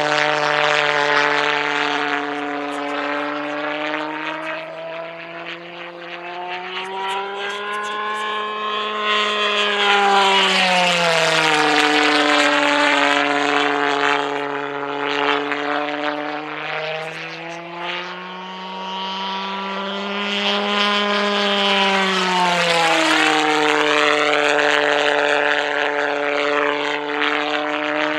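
Pulsejet engine of a radio-controlled Heinkel He 162 model jet running steadily with a buzzing tone as it flies past; twice the pitch rises as it approaches, then drops as it passes and recedes.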